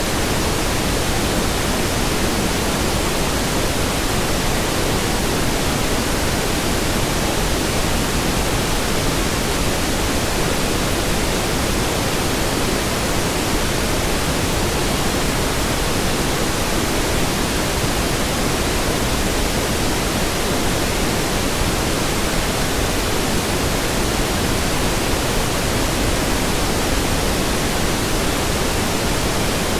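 Steady pink noise: an even, unchanging hiss spread across all pitches, its weight toward the low end.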